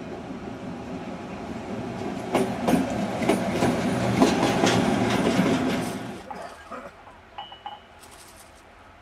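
A Green Cargo Rc4 electric locomotive hauling a timber train passes close by, its wheels clattering sharply over rail joints and points. The clatter is loudest from about two to six seconds in, then drops away suddenly, leaving only faint sounds.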